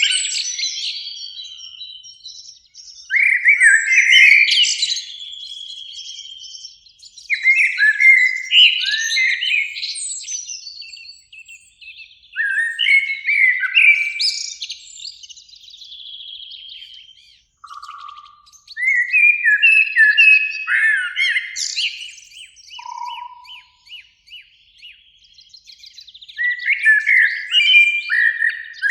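Eurasian blackbird singing: a series of fluted warbling phrases, each a few seconds long and ending in a higher twitter, with pauses of a few seconds between them.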